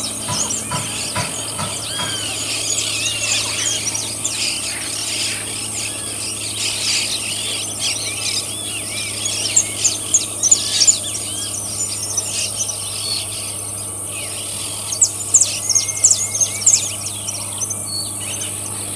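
Many birds chirping and calling over a steady high-pitched insect drone, with a faint low hum underneath. A few louder calls stand out about ten seconds in and again near the end.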